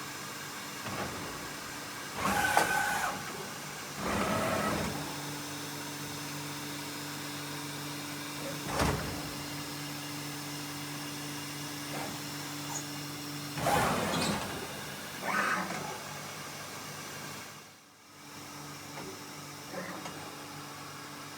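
Mazak INTEGREX 400-IV multitasking CNC lathe moving its axes, with a series of short servo-driven traverse moves, each starting and stopping, over a steady machine hum. A low steady tone comes in for several seconds midway through.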